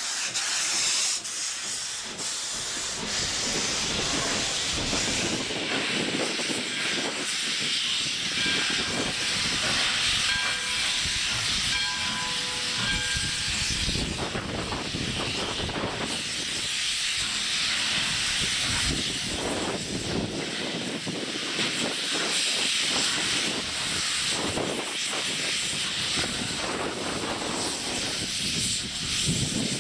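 Steam locomotive No. 93 hissing steam as it runs by, a steady strong hiss through the whole stretch, with wind buffeting the microphone.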